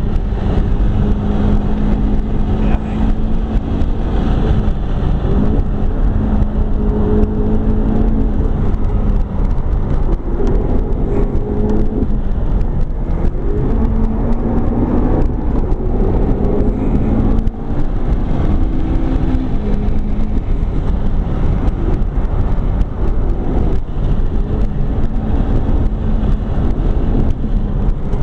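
McLaren 12C's twin-turbocharged V8 heard from inside the cabin at speed, its pitch rising and falling over and over as the car accelerates, shifts and slows through corners, over heavy road and tyre noise.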